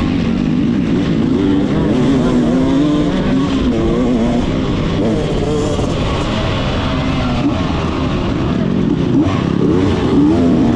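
Motocross bike engine being ridden hard, its pitch rising and falling constantly as the throttle is worked, over a steady rush of wind noise.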